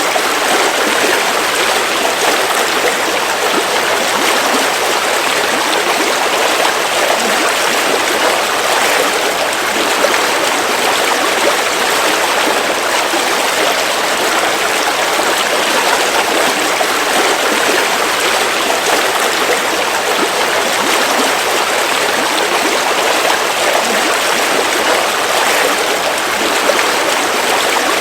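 River water flowing over rocks: a steady, even rushing and babbling.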